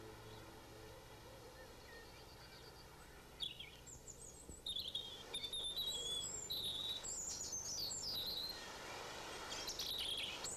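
Birds chirping and singing in quick, high calls that begin about three seconds in, over a faint steady hiss.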